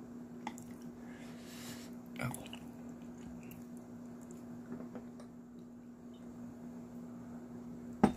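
Close-up chewing of firm, chewy raw flathead sashimi: soft, wet mouth sounds over a steady low hum. A sharp click comes near the end.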